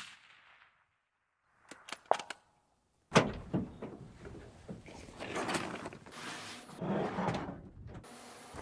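Hard parts being handled: a few quick clicks, a sharp knock about three seconds in, then rubbing and scraping.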